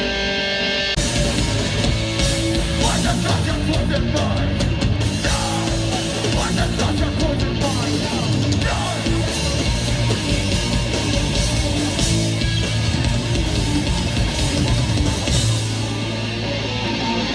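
Live hardcore punk band playing loud, distorted electric guitars and drums. A held guitar chord gives way to the full band crashing in about a second in.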